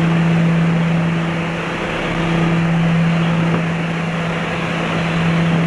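Shorts Skyvan's twin turboprop engines droning steadily with rushing air, heard from inside the cabin: one constant low hum over a broad whoosh.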